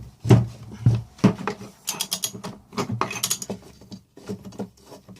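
Hand-tool work on a Suzuki RM-Z250 clutch: a few solid knocks, then irregular metallic clicking and clatter as a socket is worked on the clutch basket nut, the basket held by a drilled plywood jig.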